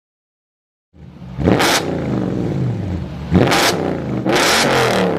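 Car engine revving hard and accelerating, starting about a second in, its pitch climbing, with three loud sharp bursts along the way.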